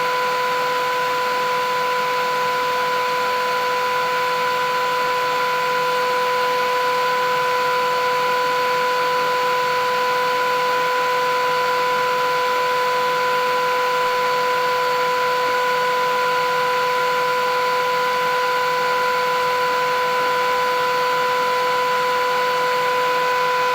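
Philips 8000 Series vacuum cleaner running steadily: a constant motor whine over an even rush of air, with no change in speed.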